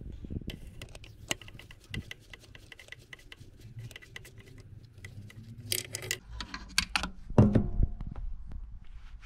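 Metal hand tools and engine parts being handled on the bench: a run of quick light clicks, then louder clanks and clatter for a couple of seconds near the end.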